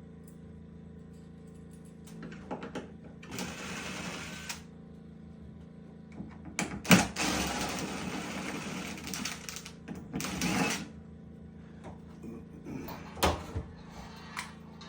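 A power tool runs in several short bursts, the longest about three seconds, with a couple of sharp knocks in between.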